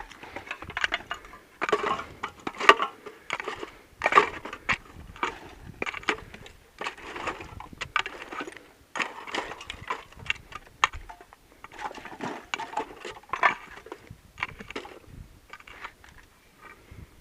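Footsteps crunching over rough, stony ground, an uneven crunch roughly once a second, mixed with small sharp clinks like metal or glass debris being knocked.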